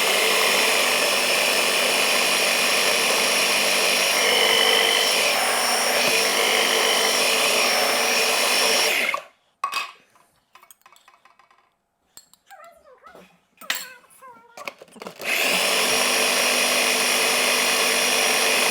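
Electric kitchen blender running steadily, mixing beet juice into a pureed chicken mixture. It cuts off about nine seconds in, a few small knocks and handling sounds follow, then it starts again about fifteen seconds in and keeps running.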